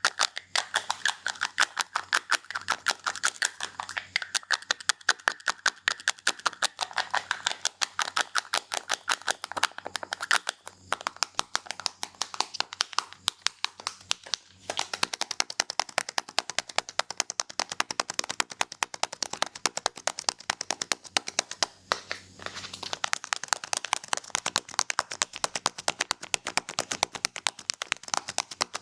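Barber's scissors snipping rapidly and continuously, several sharp snips a second, with a few brief pauses.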